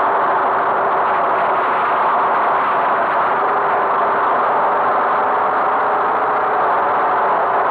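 Steady running noise of a vehicle on the move: an even engine hum under continuous road and rushing noise, unchanging throughout.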